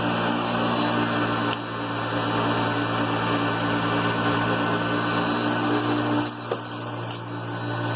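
Hoover Concept One upright vacuum cleaner running steadily with a constant motor hum and airflow rush. It dips briefly about a second and a half in and again near the end, where a single click sounds.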